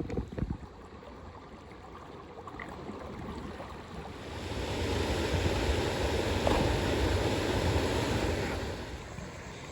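River water rushing, swelling louder for several seconds in the middle and then easing back, with a few light clicks at the start.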